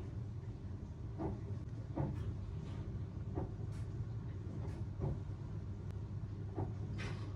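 Light clicks and taps of kitchen work, scattered irregularly, over a steady low hum.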